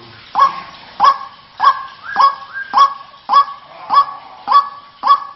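White-breasted waterhen calling: one short, loud call repeated at an even pace, just under two a second.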